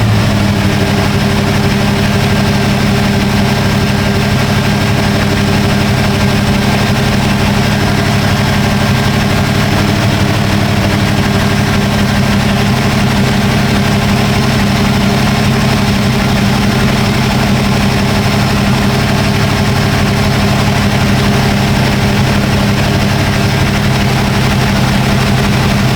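Chevrolet 350 small-block V8 idling steadily with an even low drone, its carburetor fed by a fuel pressure regulator set down to 3 psi to keep it from flooding.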